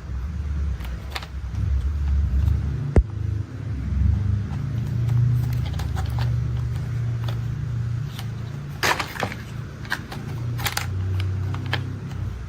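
Low, steady engine rumble of heavy machinery, with a sharp click about three seconds in and short bursts of clicking and clattering near nine and eleven seconds.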